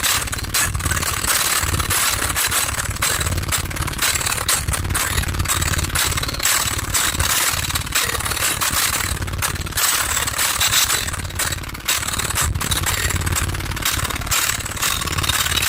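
Car audio subwoofers playing heavy bass at high volume, with a dense crackling rattle over it from buzzing panels and an overloaded microphone.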